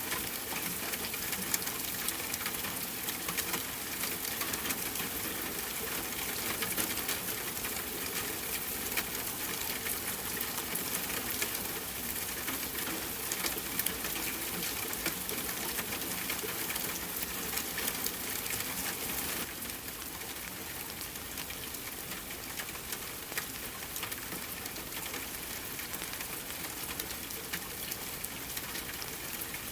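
Steady rain against a window mixed with a crackling wood fire, with fine crackles throughout. The rain hiss drops a little about two-thirds of the way through.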